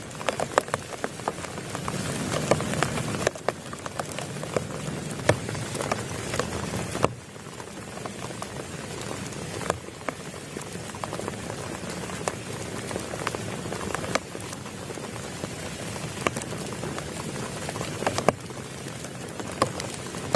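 Heavy rain falling steadily, with many sharp individual drop impacts ticking on a close surface. The rain grows abruptly quieter about seven seconds in.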